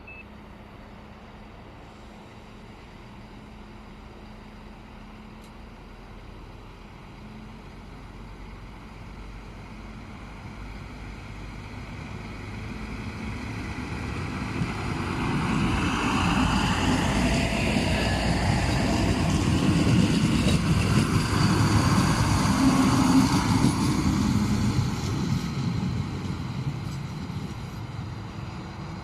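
Siemens Desiro diesel multiple unit pulling out of the station. Its diesel engine and running gear grow steadily louder as it accelerates past, loudest about two-thirds of the way through, then fade as it moves off.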